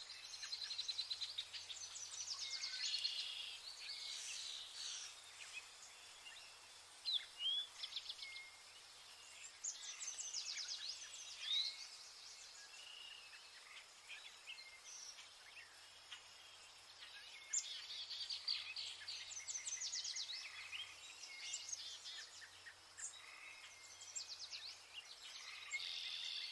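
Several woodland birds singing and calling at once: faint, overlapping high trills, short chirps and quick whistled notes, coming in bursts with short lulls between.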